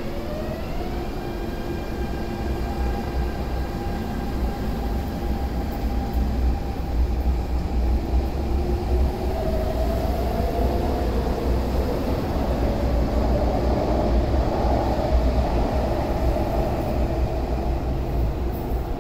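MTR electric train pulling away from the platform: its traction motors whine, rising in pitch over the first second and then holding, over a steady low rumble of the train moving.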